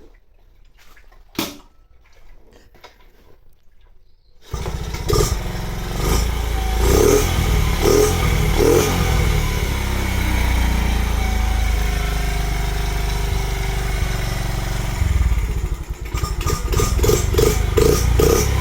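Carbureted Honda Monkey AB27 single-cylinder four-stroke engine starting after half a year unused. After a few quiet seconds with one sharp click, it catches suddenly and runs with throttle blips, then a steadier stretch, a brief dip, and quick repeated revs near the end.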